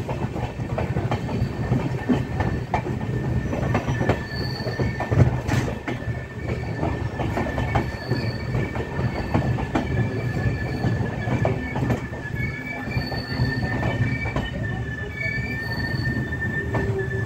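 Passenger train coaches heard from an open coach door as the train slows into a station: a steady high-pitched wheel and brake squeal runs over the low rumble and rattle of the running gear, with frequent clicks of wheels over rail joints.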